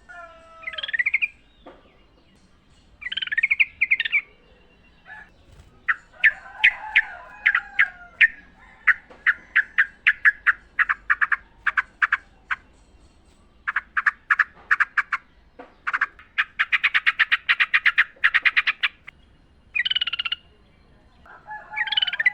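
Yellow-vented bulbuls calling: short bubbly whistled phrases, then long trains of quick sharp notes building into a dense rapid chatter, with bubbly phrases again near the end.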